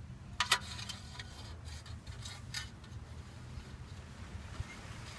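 Light clicks and ticks of a car's oil dipstick being drawn out of its tube, two sharper ones about half a second in and a few fainter ones later, over a low steady hum.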